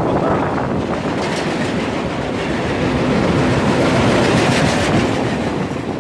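Intermodal freight train cars rolling past, steel wheels clicking over the rail joints over a steady rumble.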